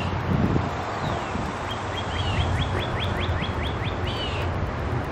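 A songbird singing a quick run of about ten short down-slurred notes, about five a second, over a steady low background rumble.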